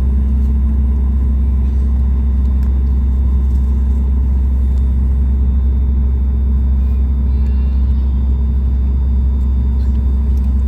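Steady low drone of a Boeing 737 MAX 8 heard from inside the passenger cabin, with a steady hum that rises slightly in pitch right at the start.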